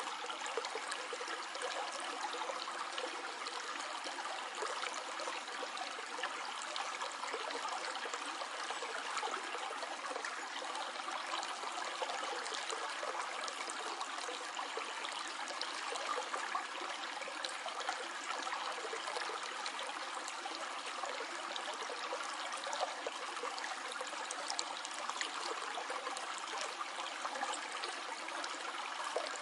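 A small stream flowing and trickling steadily, with a fine splashing and burbling of water over stones.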